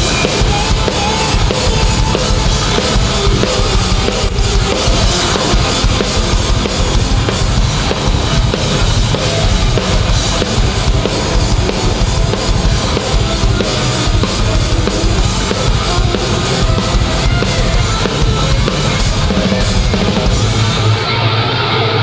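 Hardcore band playing an instrumental passage live, with no vocals: a pounding drum kit with bass drum and cymbals under heavy guitars and bass. Near the end the cymbals drop away, leaving guitar and bass.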